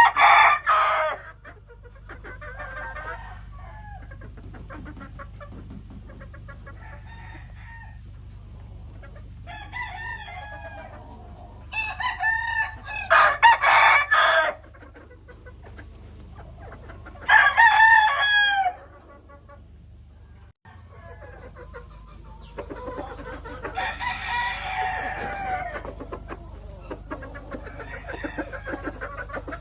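Gamefowl roosters crowing again and again, some crows loud and close, others fainter and overlapping, over a steady low background rumble.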